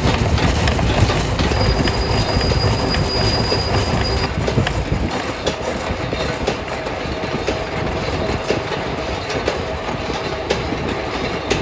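Heavy factory machinery running with a steady low rumble and many irregular metallic clanks and clicks, and a brief high whine near the start.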